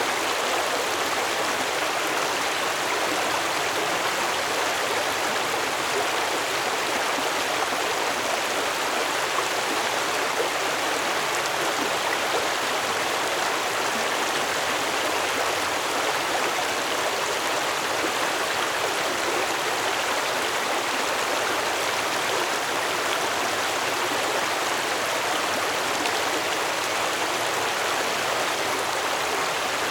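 Stream water flowing steadily over rocks, a constant rushing and splashing.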